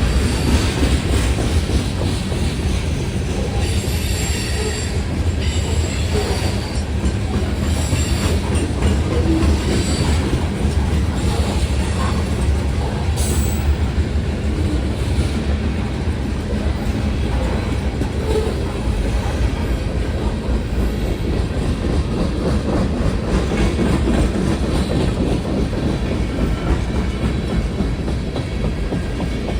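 Freight train cars of a manifest train rolling steadily past at a grade crossing, their wheels clacking over the rails with some high wheel squeal in the first third.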